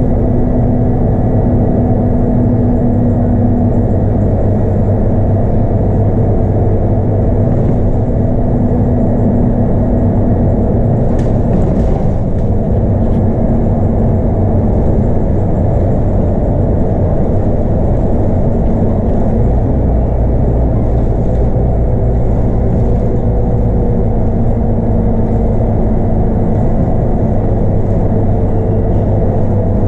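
Scania K230UB bus with its 8.9-litre five-cylinder Scania DC9 diesel, heard from inside the cabin while driving at a steady speed: continuous engine drone and road rumble. A few brief rattles come through about eleven to thirteen seconds in.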